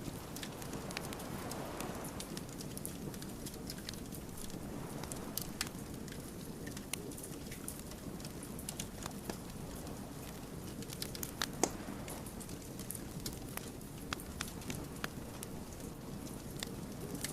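Wood fire burning with a steady low rush and frequent irregular crackles and pops from the logs, one sharper pop about two-thirds of the way through.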